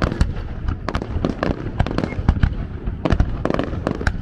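Aerial Japanese fireworks display bursting in a rapid, irregular barrage of bangs, several a second, overlapping one another.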